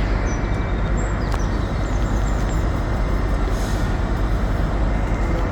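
A train at the station platform running with a steady, loud rumble and hiss.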